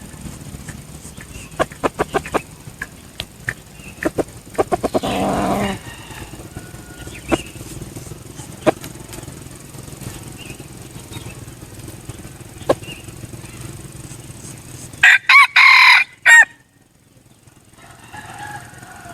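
Red junglefowl cock, a decoy bird, flapping its wings in a few quick runs of sharp claps, then giving one loud, short crow about fifteen seconds in.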